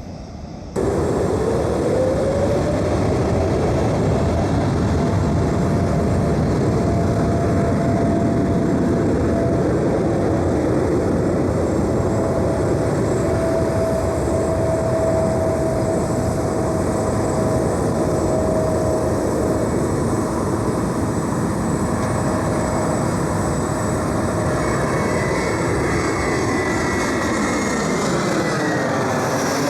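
Jet engines of a large airliner running at high thrust close by. The sound starts suddenly about a second in, with a whine that rises over the next couple of seconds and then holds steady under a loud rush. Near the end a high whine falls in pitch as the aircraft passes.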